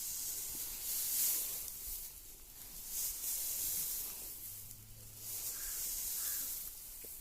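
Dry fodder rustling as it is handled and tossed to the cows, a hissing rustle that comes in irregular surges.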